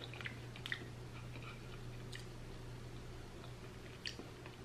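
A person chewing a soft mouthful of plant-based tuna with the mouth closed: faint, with a few small mouth clicks scattered through it, over a steady low hum.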